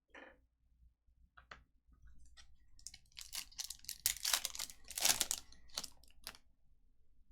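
Foil trading card pack wrapper being torn open and crinkled, a run of crackling rustles that is loudest about four to five seconds in.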